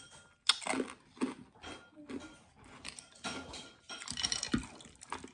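Close-up crunchy chewing of a mouthful of water chestnut: irregular crisp crunches, with a quicker cluster about four seconds in.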